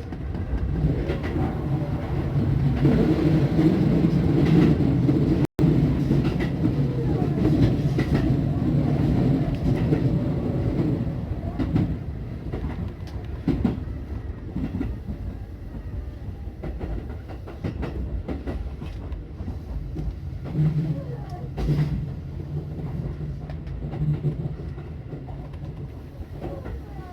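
Tobu Skytree Line electric train running on the rails, wheels clicking over rail joints over a steady low hum. Loud for the first dozen seconds, then quieter, with the hum swelling again briefly later on.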